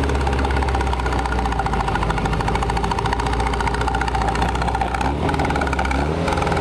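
Lotus Elise Sport's engine running through its exhaust at a steady pitch, with a brief change in tone about five seconds in.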